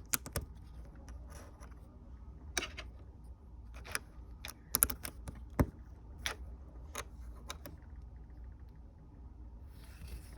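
Plastic Lego pieces clicking and clattering as they are handled and snapped together, a scattering of sharp clicks with a small cluster about halfway through.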